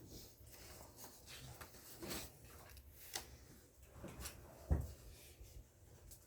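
Scattered small clicks, rustles and knocks, with one louder low thump about three-quarters of the way through.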